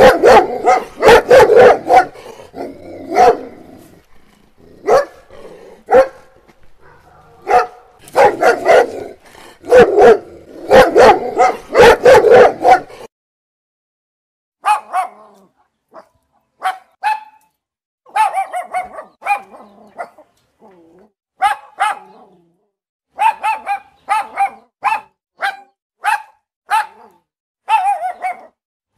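Dogs barking: dense runs of deep, rapid barks for about the first half, then after a short break a higher-pitched bark in single and short runs of yaps.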